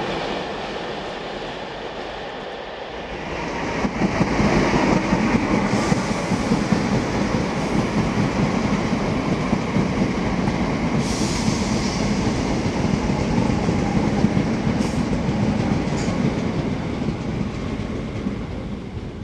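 Thameslink electric multiple unit running along the line beside the platform, its wheels rumbling on the track. It gets louder about four seconds in and eases off near the end, with a brief hiss about eleven seconds in.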